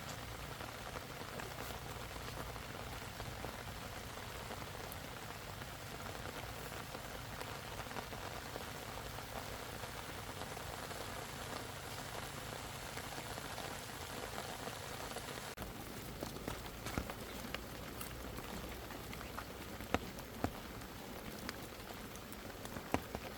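Steady rain falling, an even hiss, with a few sharp taps in the last third.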